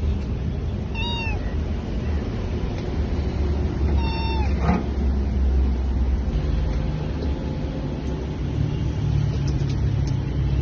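A cat meows twice, about three seconds apart: short calls that bend downward in pitch, over a steady low rumble.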